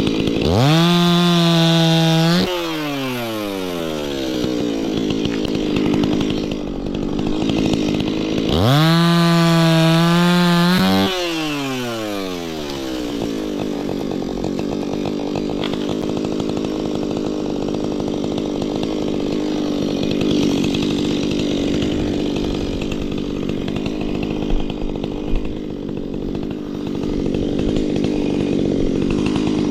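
Stihl MS 180 two-stroke chainsaw revved to full throttle twice, each rev held about two seconds before the pitch falls away as the throttle is released. It then runs at a lower, rougher, steady speed, with two sharp knocks about three-quarters of the way through.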